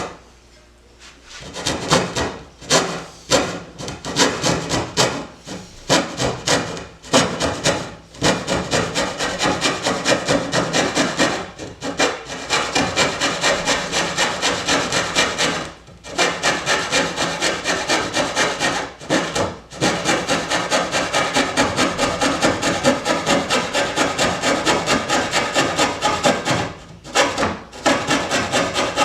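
Coping saw cutting through a wooden board by hand: quick, even back-and-forth strokes about three a second, stopping briefly a few times before carrying on.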